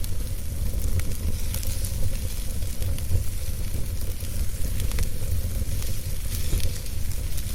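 Wood fire crackling in a fireplace: a steady hiss with scattered sharp pops, over a constant low rumble.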